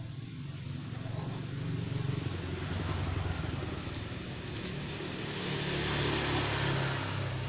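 A motor vehicle's engine running, its sound swelling twice: a couple of seconds in and again near the end.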